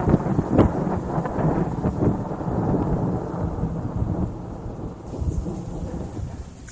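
Rolling thunder rumbling, with sharp crackles in the first couple of seconds, then slowly dying away.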